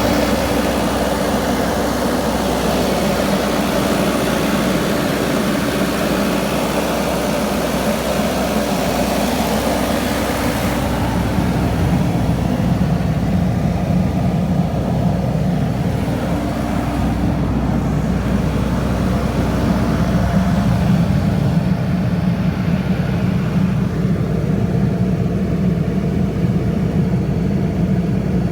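Cummins diesel engine of an Ingersoll Rand 50 kW portable generator set running steadily. About eleven seconds in the higher hiss fades and a deeper tone comes forward.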